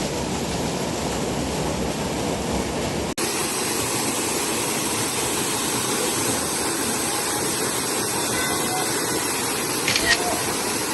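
Steady rushing water noise, with a brief cut about three seconds in.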